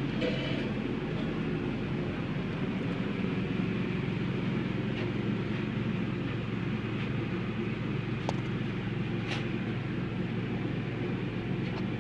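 Steady hum of running forge-shop machinery, with a few faint clicks and no hammer blows.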